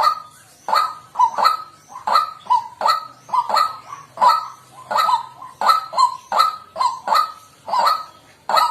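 White-breasted waterhen calling over and over: a fast, unbroken run of short harsh 'kwak' notes, about two to three a second.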